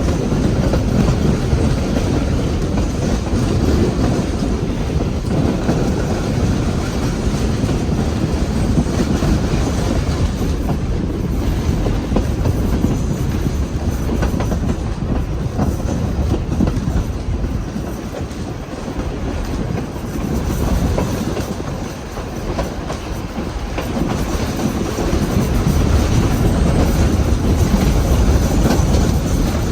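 A heritage train in motion: a steady low rumble from the carriage running along the track, with the clickety-clack of wheels passing over rail joints. It eases briefly about two-thirds of the way in, then builds again.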